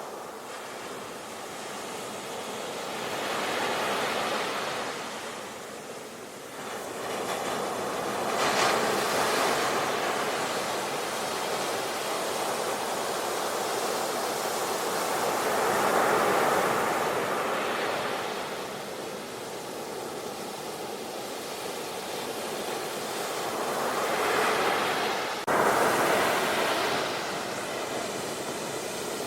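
Ocean surf on a beach: waves breaking and washing in, the sound swelling and ebbing every few seconds. The strongest surges come about nine seconds in, around sixteen seconds, and with a sudden louder break about twenty-five seconds in.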